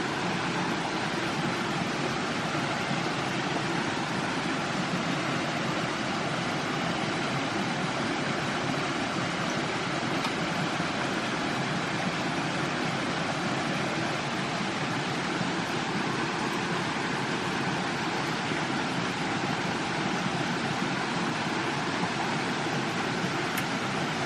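Steady rushing noise, even and unbroken, with no separate knocks or calls standing out.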